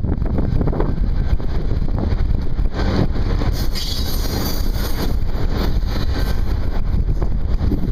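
A freight train rumbling past, with wind buffeting the microphone.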